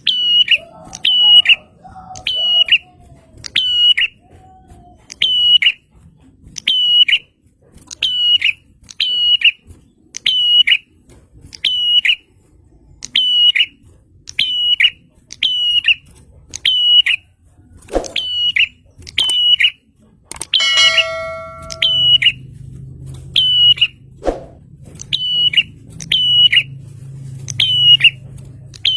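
Prenjak (prinia) calling over and over: a loud, sharp, high note roughly once a second. About two-thirds of the way through, a different bird call with a stack of ringing notes cuts in, and a couple of sharp clicks sound.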